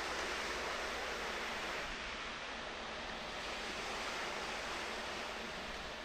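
Sea waves washing on the shore, a steady rushing wash.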